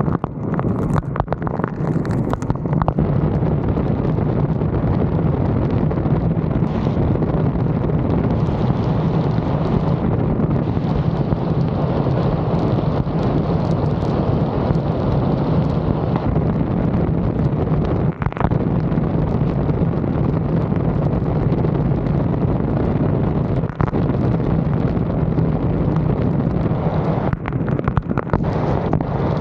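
Heavy wind buffeting the microphone of a roof-mounted camera in a thunderstorm: a loud, steady low rush, with a few sharp clicks in the first few seconds.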